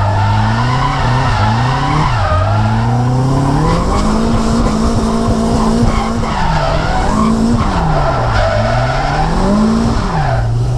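Nissan S14's turbocharged SR20DET four-cylinder engine revving up and down through a drift, holding high revs mid-way and dropping back several times before settling lower near the end, with tyres skidding and squealing throughout.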